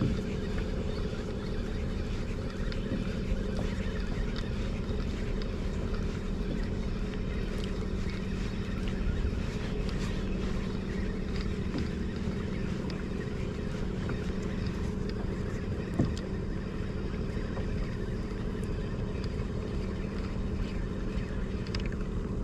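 A steady low hum over a bed of water and wind noise, as heard from a small boat at sea, with one sharp knock about sixteen seconds in.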